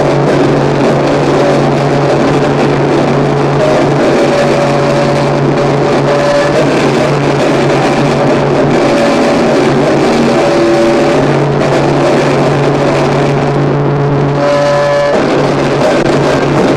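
Harsh noise music: a loud, dense wall of distorted electronic noise over a steady low drone, with thin tones flickering in and out above it and a brief fast stutter near the end.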